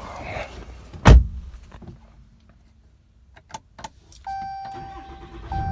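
Pickup truck door shutting with a loud thud about a second in, followed by a few small clicks and a dashboard warning chime in long, repeated steady tones. Near the end the 6.7 Cummins diesel starts and runs low and quiet, heard from inside the cab.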